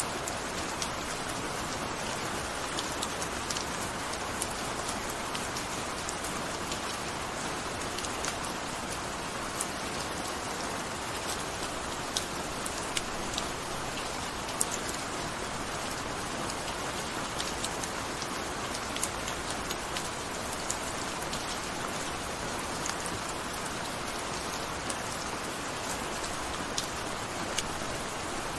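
Steady gentle rain falling, an even hiss with many individual drops ticking on a surface.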